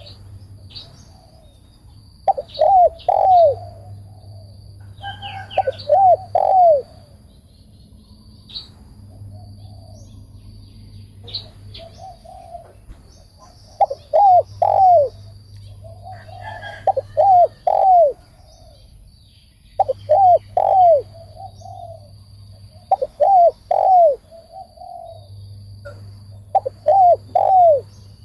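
Spotted dove cooing: about seven short phrases of three or four quick coos, each a few seconds apart, with faint chirps of other birds between them.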